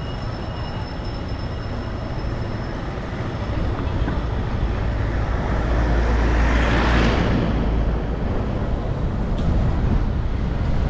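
Street traffic heard while riding, over a constant low rumble. A louder passing vehicle swells up and fades away, peaking about seven seconds in.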